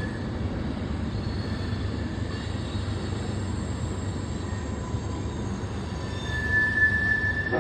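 CSX mixed freight train rolling past: a steady rumble and clatter of wheels on the rails, with a thin high squeal coming in about six seconds in.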